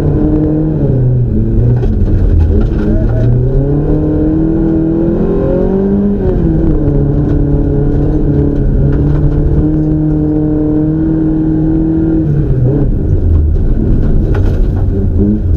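Peugeot 504 coupé's engine driven hard, heard from inside the cabin: the revs climb and fall several times, hold steady for a few seconds in the middle, then drop and climb again near the end.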